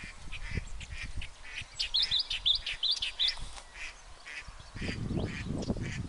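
Birds calling repeatedly, with a run of about seven quick rising chirps in the middle. A low wind rumble on the microphone near the end.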